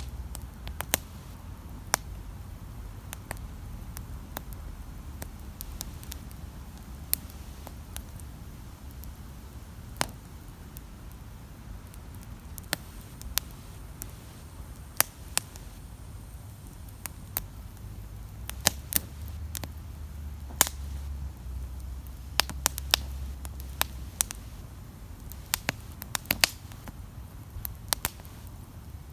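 Wood campfire crackling: irregular sharp pops and snaps, coming thicker in the second half, over a low steady rumble.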